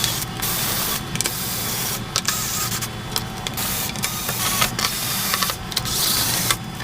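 Electric screwdriver whirring in short runs, stopping and starting about once a second, as it undoes the screws of an LED TV's plastic back cover.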